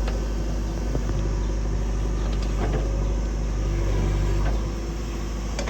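Heavy diesel engine running steadily, easing off a little near the end.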